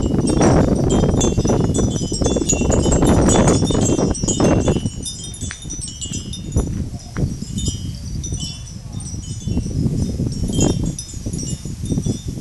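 Storm wind gusting over a mobile phone's microphone, strongest for the first five seconds and then easing off, with wind chimes tinkling throughout.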